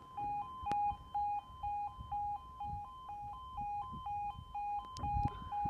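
Level crossing audible warning alarm sounding: an electronic two-tone call switching evenly between a lower and a slightly higher pitch about three times a second, warning that the barriers are coming down for an approaching train.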